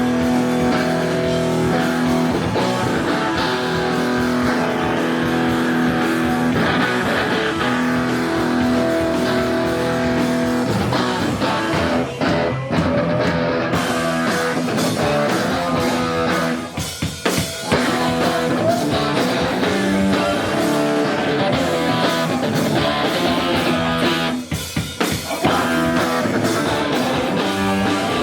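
Live hardcore punk band playing loud distorted electric guitars, bass and drum kit, with a few short stops in the music.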